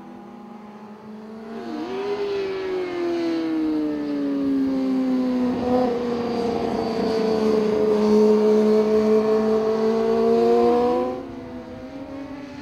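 Superbike racing motorcycle engines running at high revs, the note gliding slowly, with a quick dip in pitch from a gear change about two seconds in and again near eleven seconds. Much louder from about two seconds in, then dropping off sharply near eleven seconds.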